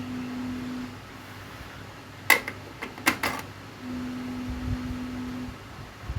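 A low steady hum sounds twice, each time for about one and a half to two seconds, with a few sharp clicks, like small parts or tools knocking, in the gap between.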